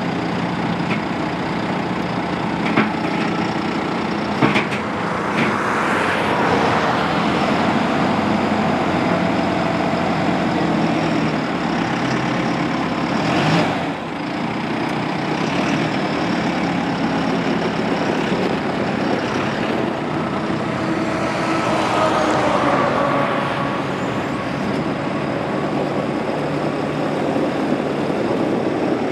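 John Deere 5100E tractor's four-cylinder turbo diesel running steadily, swelling louder for a few seconds twice, once about a quarter of the way in and once about three quarters through, with a few sharp clicks early on.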